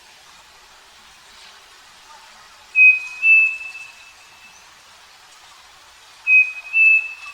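Striped cuckoo (saci) singing its two-note whistled song twice: each song is a short clear whistle followed by a slightly higher, longer one that fades out.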